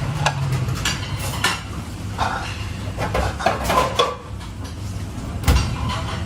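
Metal utensils and cookware clinking and clattering in a kitchen, several separate knocks over a steady low hum.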